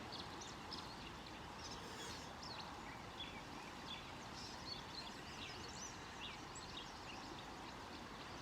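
Steady faint rush of a creek with many birds chirping and calling throughout.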